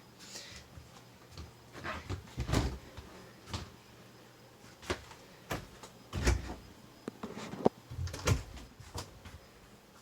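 Storage and cabinet doors being opened and shut, a string of separate knocks and thumps.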